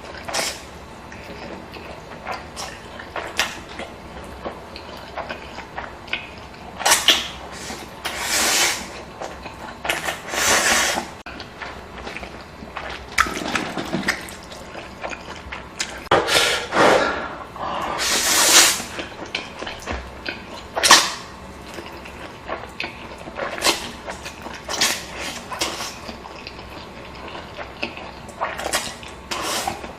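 Close-miked eating of spicy stir-fried instant noodles: repeated loud slurps of noodles, each a rushing burst of about a second, with wet chewing and small mouth clicks between them.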